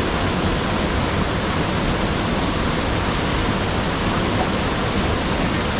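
A waterfall's falling water making a loud, steady, even rush of noise.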